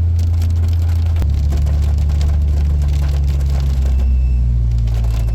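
A car engine droning steadily under way, heard from inside the cabin; its pitch steps down about a second in and shifts again a couple of seconds later.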